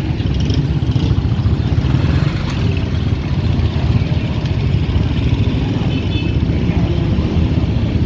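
Motorcycle engine running steadily while being ridden, with road and wind noise.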